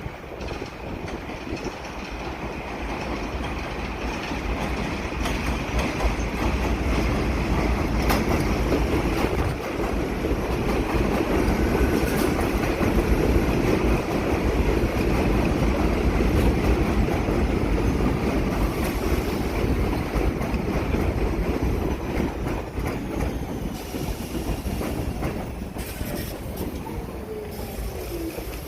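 New York City subway train running through the station with a loud wheel-and-rail rumble and some clatter over the rail joints. It grows louder over the first few seconds, holds steady for a long stretch, then eases off near the end.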